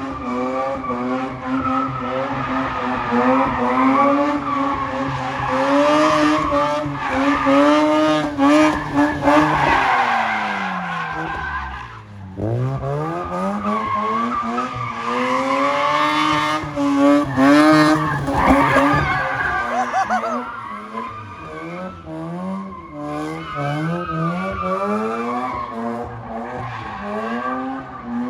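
Car engine revving hard with tyres squealing as the car drifts. The revs rise and fall repeatedly, drop sharply about twelve seconds in, then climb back.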